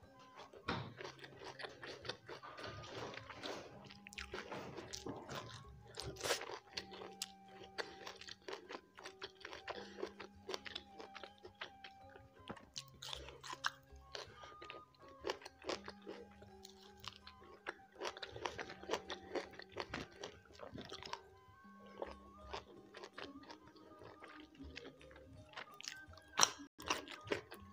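Close-miked chewing and crunching of food eaten by hand, with frequent short crackles. Soft background music with a slow, stepping bass line plays underneath.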